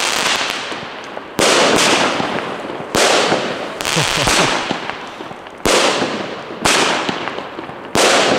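A 30 mm consumer fireworks battery firing. Five loud shell bursts come one to two and a half seconds apart, and after each one a trail of crackling fades away.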